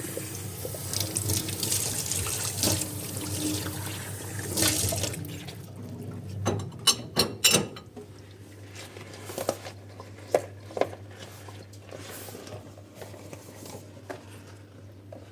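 A kitchen tap runs water into the sink and is shut off about five seconds in. Then come a quick cluster of sharp clinks and knocks, and a few more scattered ones later, from dishes being handled, over a low steady hum.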